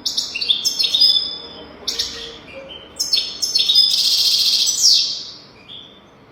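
European goldfinch singing: quick runs of high twittering, chirping notes, with a longer, dense buzzy trill about four seconds in that stops shortly before the end.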